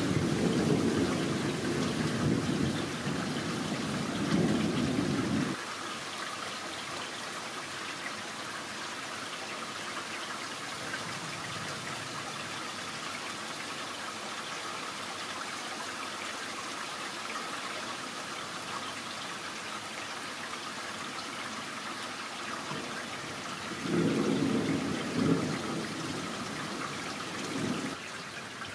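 Steady rain falling, a continuous hiss. Low rumbling rises over it at the start, stops abruptly about five and a half seconds in, and returns for a few seconds near the end.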